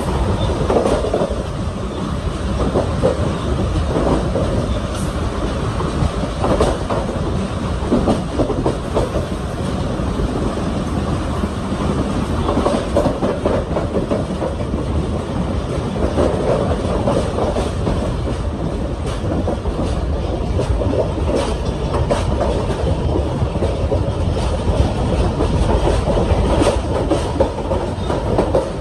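Railcar train running along the track: a steady rumble with irregular clicks and knocks of the wheels going over the rail joints.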